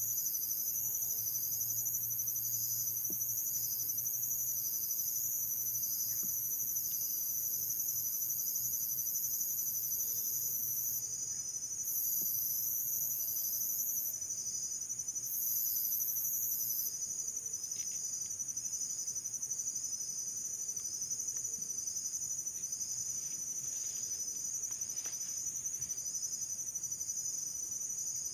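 A chorus of crickets and other insects trilling steadily at several high pitches. A fast pulsing trill sits under a very high continuous buzz, and the buzz drops out and comes back a few times around the middle.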